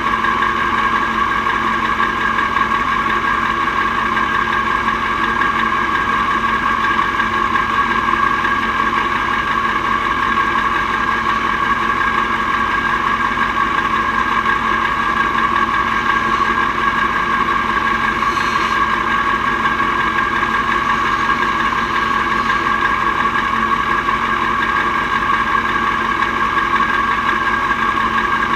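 Mack R-series V8 truck engine running at a steady, unchanging speed, with no revving or gear changes.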